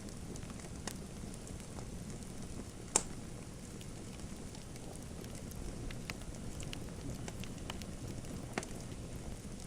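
Wood fire crackling in a fireplace: a steady low rumble of flames with scattered sharp pops, the loudest about three seconds in and another near the end.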